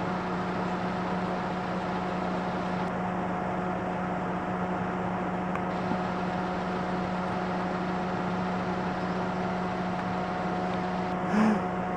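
Car engine idling with a steady, unchanging hum.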